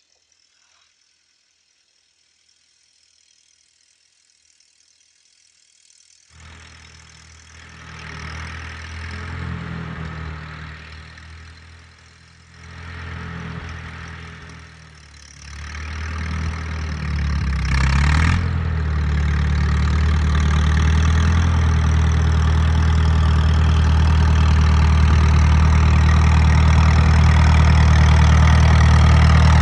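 Near silence for about six seconds, then the 1936 Case L tractor's four-cylinder engine starts to be heard. It swells and fades a few times, then settles into a steady run that slowly grows louder, with one short sharp sound about eighteen seconds in.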